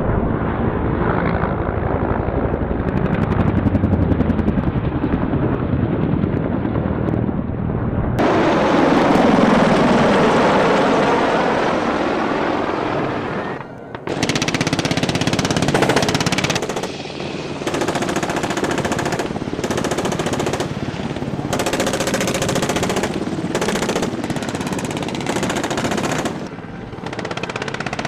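Attack helicopter rotor and engine noise with bursts of rapid automatic gunfire, cut together from several clips, so the sound changes abruptly every few seconds.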